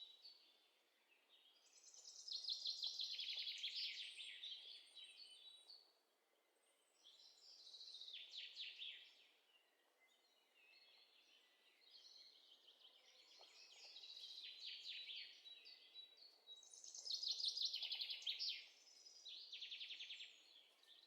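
Faint bird calls: five or six short phrases of rapid trilled chirping, each one to three seconds long, with near silence between them.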